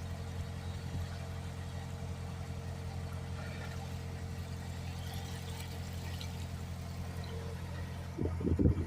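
An engine idling steadily with a low, even hum. A louder, short, wavering sound breaks in near the end.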